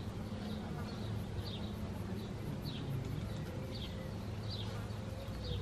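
A bird calling with short, high, falling chirps repeated roughly once a second, over a low steady hum.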